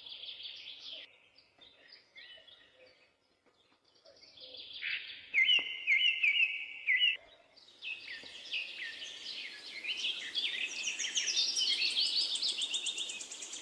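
Birds chirping and singing. A few scattered chirps, then a run of loud repeated notes near the middle, and later a dense stretch of rapid high chirping over a faint background hiss.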